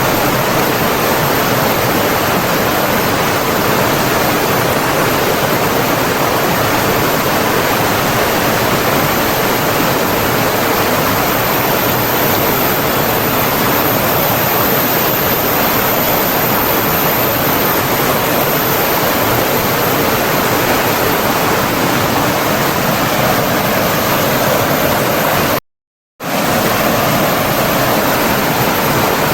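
Steady, even rush of flowing water, which cuts out completely for about half a second near the end before resuming.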